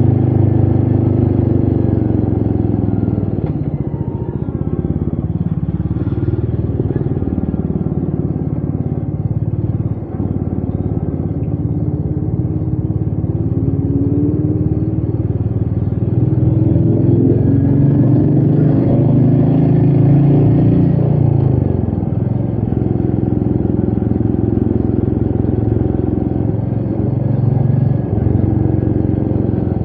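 Royal Enfield Meteor 350's single-cylinder engine running under way, its pitch rising and falling repeatedly as the rider opens and closes the throttle.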